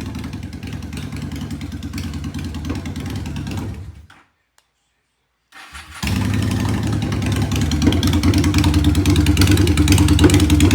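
Honda Shadow 750 V-twin idling through its exhaust, then cutting out at about four seconds. After a short silence it is started again, catches and settles back to a steady idle, slightly louder near the end.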